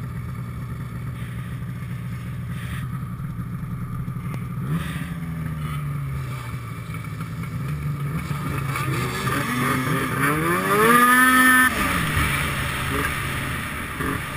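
Snowmobile engine running at a steady drone, then revving higher from about five seconds in. It climbs to a loud high-pitched peak near the end and falls away sharply.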